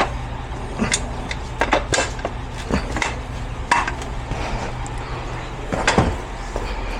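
Scattered metallic clanks and clinks of towing gear being handled, about half a dozen sharp knocks spread over the seconds, over a steady low hum.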